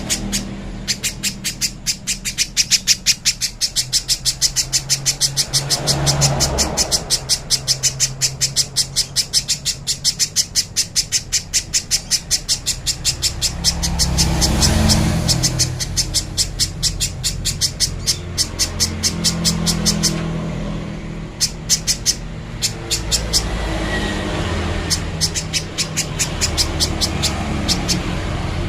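Spiderhunter (pijantung pisang) calling a long, rapid series of sharp, evenly repeated high notes, several a second, breaking into scattered notes near the end. A low rumble of traffic runs underneath.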